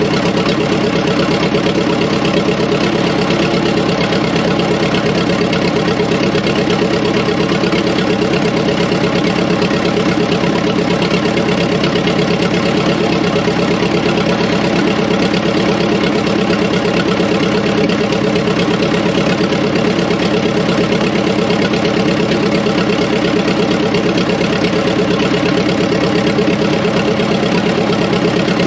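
Fordson Power Major crane tractor's engine idling steadily at an even speed.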